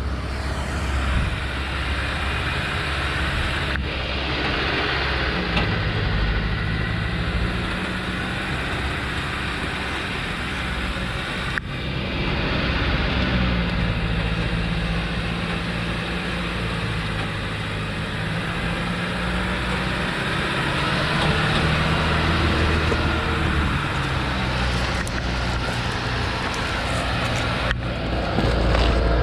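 Diesel engine of a truck heavily loaded with acacia logs running as it descends a slope, its low engine note holding steady and shifting in pitch in steps, with a few abrupt cuts.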